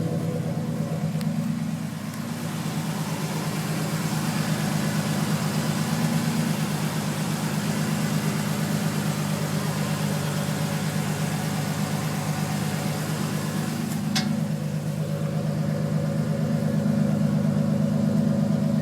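2006 Ford F-150's 4.2-litre V6 idling steadily after a cold start, its exhaust note coming through a new Flowmaster muffler and exhaust tip. A single short click sounds about three-quarters of the way through.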